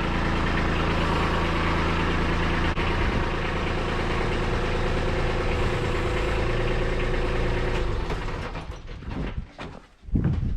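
Kubota B2601 compact tractor's three-cylinder diesel engine idling steadily, then dying away about eight seconds in.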